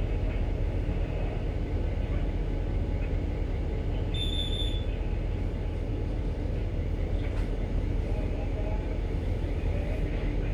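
Steady low hum and rumble of a ship's machinery heard on the bridge during berthing, with one short electronic beep about four seconds in.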